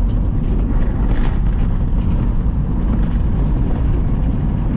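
Semi truck driving at highway speed, a steady low rumble of engine and tyre noise.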